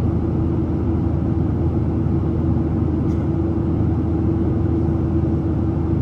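Steady cabin noise inside a Boeing 737-700 in flight: the CFM56-7B engines and airflow make a constant deep rumble with a steady hum.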